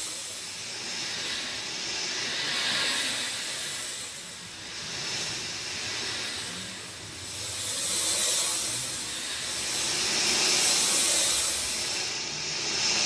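Rain falling steadily, a dense hiss that swells and eases every two to three seconds.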